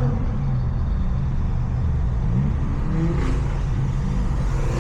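V6 car engines rumbling steadily at low speed, with a short rising rev about halfway through.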